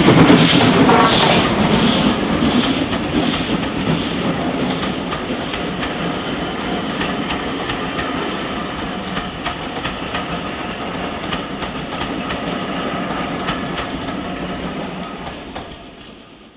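A steam-hauled passenger train passing close by: a few evenly spaced exhaust beats at first, then the coaches rolling past with a run of wheel clicks over the rail joints. The sound fades away near the end.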